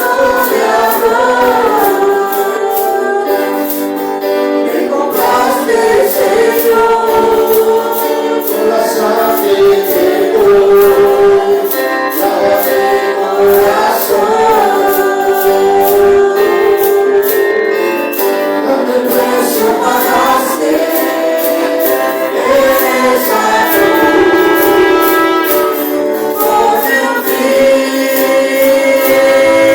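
Group worship singing over instrumental accompaniment with a steady percussion beat.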